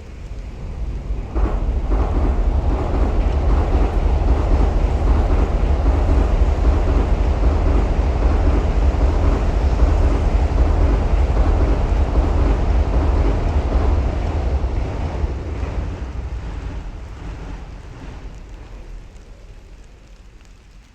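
A Shinkansen bullet train passing at reduced city speed: a loud low rumble that swells about a second in, holds for about fifteen seconds, then slowly fades away.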